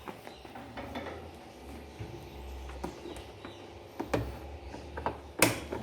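Light clicks and knocks of a washing machine's suspension spring being hooked and pushed into its mounting, with a sharper click near the end.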